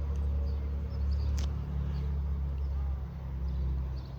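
A steady low rumble with faint, short high chirps, and one sharp click about a second and a half in.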